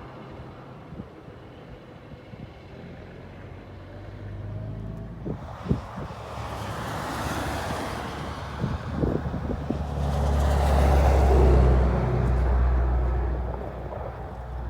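Straight-piped exhaust of the 1974 Kenworth W900 semi truck running on the road, its low engine note and rushing noise building to the loudest point about ten to twelve seconds in, then easing off.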